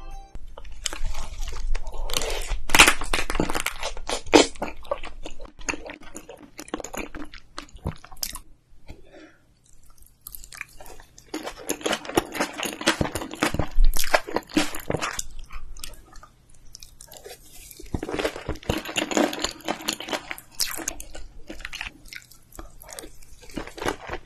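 Close-miked mukbang eating sounds: a person chewing and crunching mouthfuls of spicy seasoned food with rice. The sounds come in three louder bouts with quieter pauses between them.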